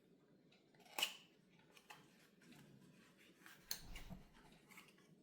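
Quiet handling of packed items: faint rustling with a few sharp clicks, the loudest about a second in and another near four seconds.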